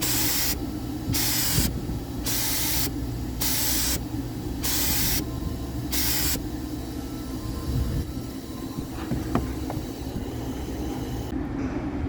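Paint spray gun hissing in short trigger pulls as the first topcoat goes on, about six passes roughly a second apart that stop a little after halfway. A steady low hum runs underneath.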